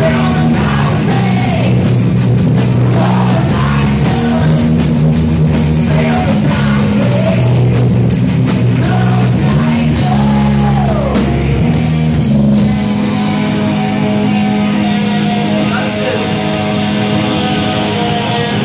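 Loud rock music with singing, distorted guitar and drums. About twelve seconds in, the singing and the cymbal-like hiss drop away, leaving long held guitar chords ringing.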